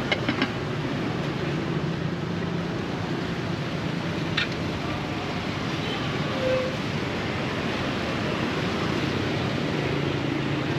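Steady background din of a market, an even rushing noise, with a few sharp clicks just after the start and another about four seconds in.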